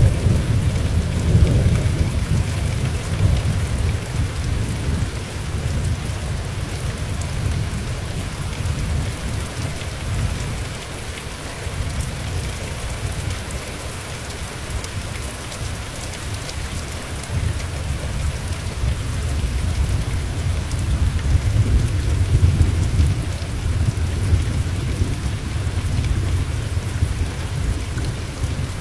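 Steady rain hissing, with low rolling thunder rumbling underneath that swells in the first few seconds and again in the last third.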